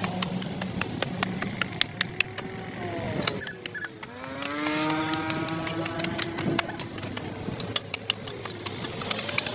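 A motor vehicle engine slows, with its pitch falling to a low point about four seconds in, then speeds up again with a rising pitch. Many sharp, irregular clicks and scrapes run throughout.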